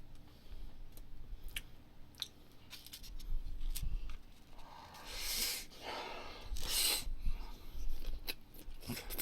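Close-miked eating sounds: chewing a mouthful of barbecued pork belly and duck wrapped in radish, with small wet clicks. Two louder, hissy bursts come about five and seven seconds in.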